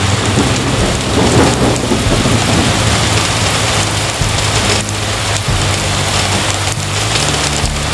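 Heavy rain pouring steadily, with a rumble of thunder swelling about a second in.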